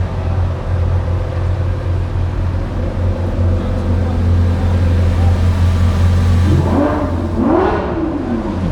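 Car engines idling with a steady low drone. Near the end, an engine is blipped twice, each rev rising and falling in pitch.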